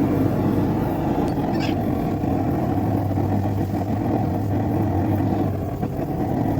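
Forge running with a steady, even roar and a low hum, typical of a burner heating a knife blade for thermocycling before heat treatment.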